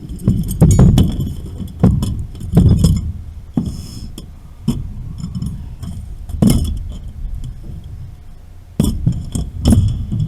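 Hard objects, such as tools and metal fittings, being handled, with sharp clinks and clatters that come in about half a dozen bunches. The loudest come near the start and again near the end.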